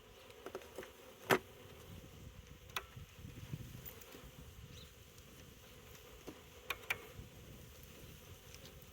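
Honeybees buzzing steadily in an open five-frame nuc hive, with a few sharp clicks, the loudest about a second in and a pair near the seventh second.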